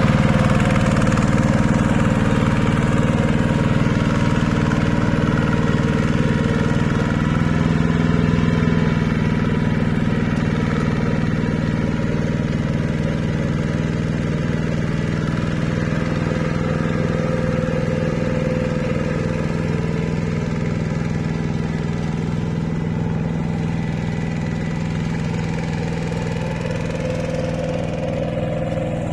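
Two-wheel hand tractor's engine running steadily at an even pitch, growing slightly quieter over the half-minute.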